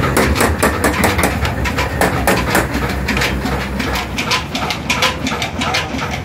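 Old stationary engine driving a stone flour mill (aata chakki), running with an even, rapid knocking of several beats a second over a steady low hum.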